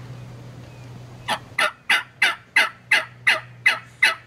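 A run of about nine loud turkey yelps, evenly spaced at roughly three a second, starting a little over a second in, each note sliding down in pitch.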